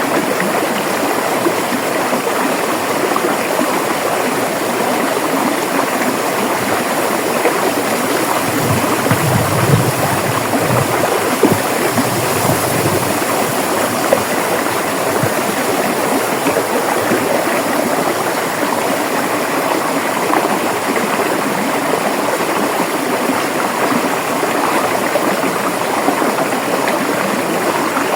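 River water rushing and babbling over rocks, a steady dense flow with small splashes now and then.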